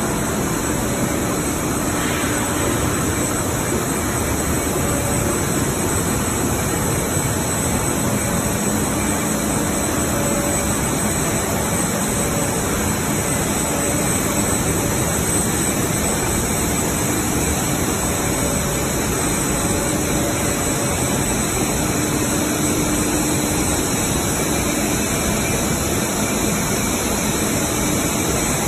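Textile finishing machinery running: the oil-removing washing machine for knit fabric gives off a steady loud hum and hiss, with faint tones that come and go.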